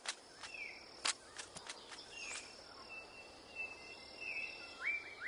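Forest ambience: short whistled bird calls, some falling and some rising sharply at the start, repeated in a quick series through the second half. Several sharp clicks come in the first two seconds, over a faint steady hiss of insects.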